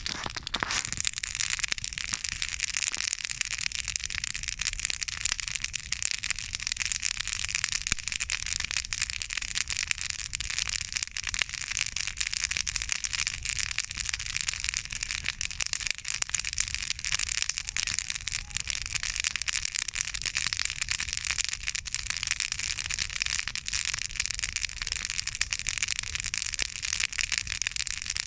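Spruce-branch campfire burning, with dense, continuous crackling and snapping.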